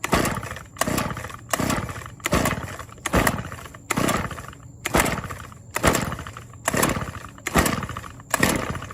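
Toro string trimmer's 25cc Kawasaki two-stroke engine being pull-started cold after sitting all summer. The recoil starter is pulled about ten times in quick succession, under a second apart, and the engine turns over with each pull without catching.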